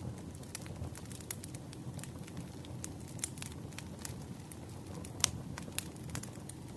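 Campfire burning: wood crackling with frequent sharp pops over a low rumble, the loudest pop about five seconds in.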